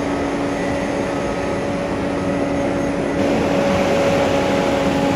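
Motor vehicle engine running at steady high revs with a constant hum, a little louder after about three seconds.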